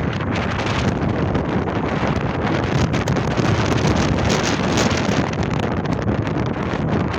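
Gale-force wind gusting and buffeting the microphone: a loud, continuous rush, heaviest in the low rumble.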